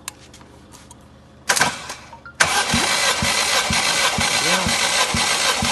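A used car engine being cranked over on its electric starter without firing, as for a compression test, with a short whirr about a second and a half in and then steady cranking from about two seconds in, its compression strokes thumping about three times a second.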